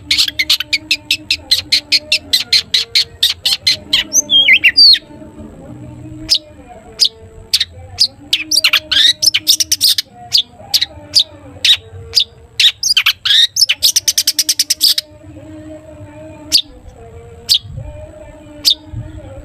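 Long-tailed shrike (cendet) calling in runs of sharp, repeated notes: about eight a second for the first four seconds, a short chatter, then spaced single notes broken by two dense rapid runs. This is the fast 'toet toet' call that keepers play to a shrike to set it calling back.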